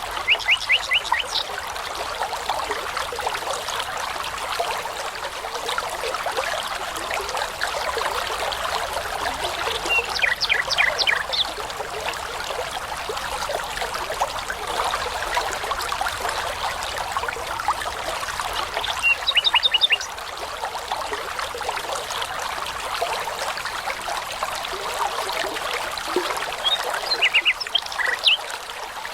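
A babbling brook burbling steadily, with a songbird breaking in four times with short phrases of rapid repeated high notes.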